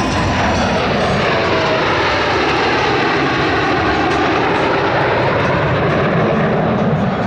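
Blue Angels F/A-18 Hornet jets passing low overhead: loud, steady jet engine noise with a sweeping whoosh that falls and rises in pitch as they go by.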